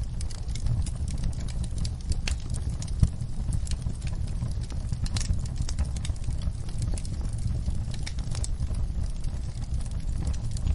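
Wood fire crackling, with irregular sharp pops over a low steady rumble of burning, and one louder pop about three seconds in.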